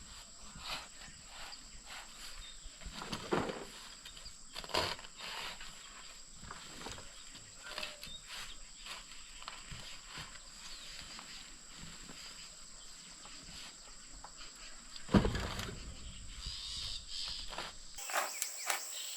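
Scattered short knocks and scrapes with one loud thump about fifteen seconds in, over a steady high-pitched whine.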